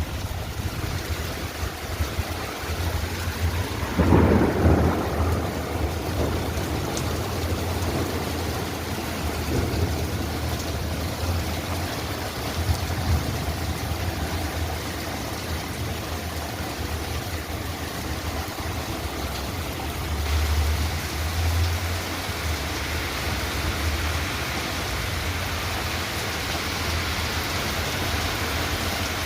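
Heavy rain pouring down steadily, with a rumble of thunder about four seconds in and a fainter low rumble later on.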